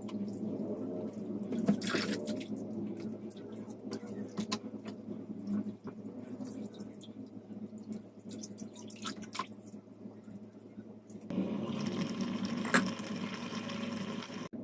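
Water running into a kitchen sink, with scattered light clicks and clatter. The flow grows louder about eleven seconds in.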